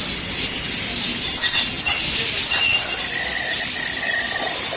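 Train wheels squealing on the rails: a loud, steady, high-pitched squeal of several tones, with a lower tone joining about three seconds in.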